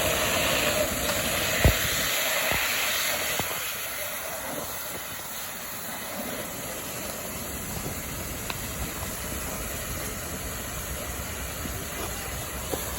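Steady hiss of a fire hose stream and steam on a burning car. It is louder for the first few seconds, then settles a little quieter, with one sharp knock about two seconds in.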